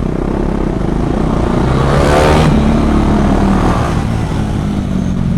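KTM Duke 390 single-cylinder engine running at low speed. About two seconds in, the engine sound swells briefly and its pitch rises and then falls.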